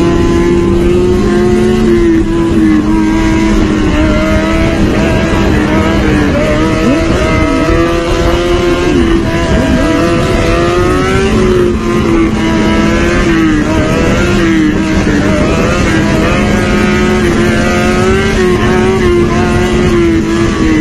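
Motorcycle engines running, one holding a steady note while another's revs waver up and down.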